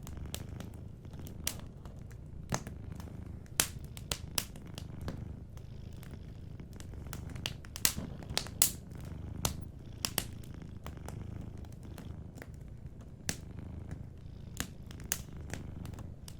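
A cat purring in a steady low rumble, with a wood fire crackling over it in irregular sharp snaps, a few louder pops among them.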